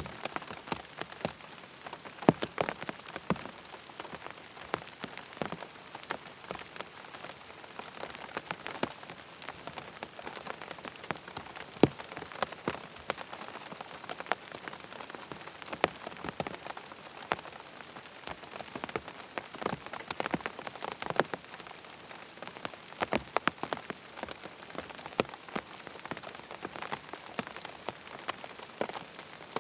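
Steady rain falling, a constant hiss with frequent irregular sharp drips and taps of drops striking a surface.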